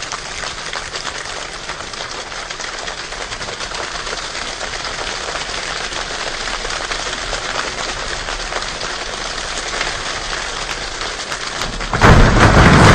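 A choir imitating rain with body percussion: a dense patter of many small strokes that slowly builds, then about twelve seconds in a sudden loud jump to a heavy downpour.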